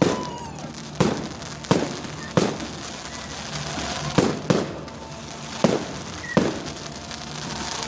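Fireworks going off in a string of about eight sharp bangs, spaced irregularly half a second to a second and a half apart, with a short falling whistle near the end.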